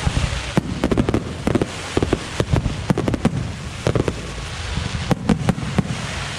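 Aerial fireworks going off in quick, irregular succession: many sharp bangs and crackling reports over a steady low rumble.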